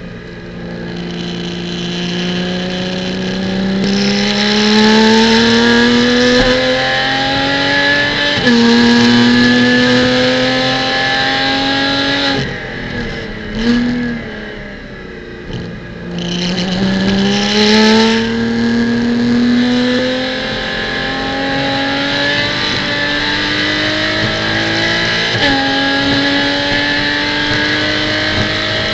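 Porsche Cayman GT4 Clubsport's flat-six engine pulling hard, heard from onboard. The pitch climbs through the gears, with a quick upshift about eight seconds in and another near the end. Around the middle it lifts off and blips down through lower revs before accelerating again.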